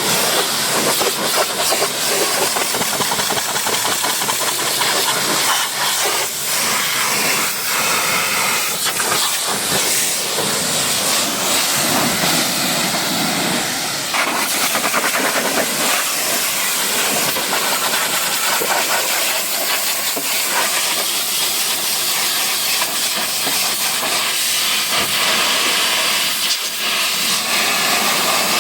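High-pressure spray hissing steadily and loudly, with brief small dips in level as the jet is moved.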